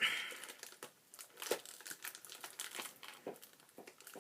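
Crinkly plastic wrapper of a Pocky package being handled and pulled at to get it open, in irregular crackles with a brief rasp at the start.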